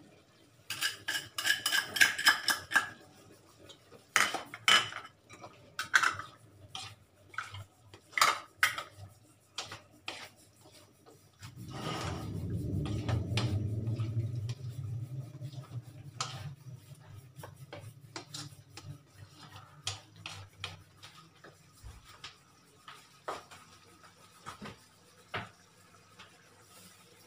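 Slotted turner scraping and knocking against a wok while the pork and liver igado is stirred, with many quick clicks and scrapes. A low hum swells up about halfway through and fades away, with occasional knocks after it.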